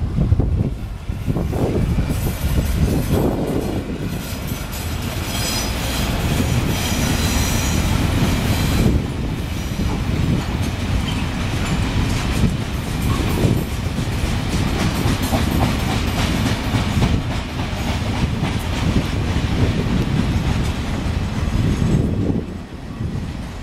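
Freight wagons of a passing train rolling by, wheels clacking over rail joints, with a high wheel squeal for a few seconds early on the curve. The noise drops sharply near the end as the last wagon clears.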